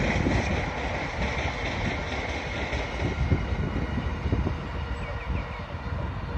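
Freight train running past at a distance, a steady rumble of wagons on the rails that slowly fades as the train draws away.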